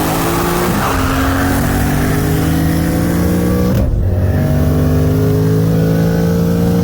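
Built turbocharged race cars, a twin-turbo Ford Mustang GT V8 and a single-turbo BMW M4, accelerating at full throttle, engine pitch rising steadily. Two upshifts break it, about a second in and about four seconds in, each dropping the pitch before it climbs again.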